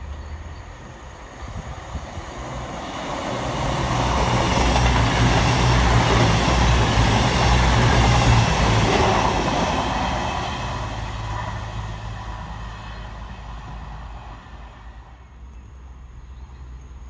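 CrossCountry Voyager diesel multiple unit passing through a station at speed. The engine drone and the wheels on the rails build to a peak and then fade away as the train moves off.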